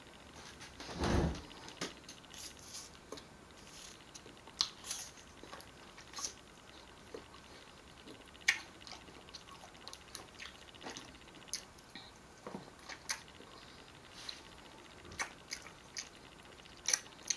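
Chewing and biting fresh fruit, with scattered short crisp clicks of eating and a dull thump about a second in.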